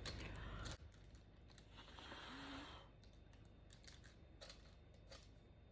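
Soft puff of breath blowing across wet pouring paint about two seconds in, amid faint scattered clicks and taps; a low rumble in the first second stops abruptly.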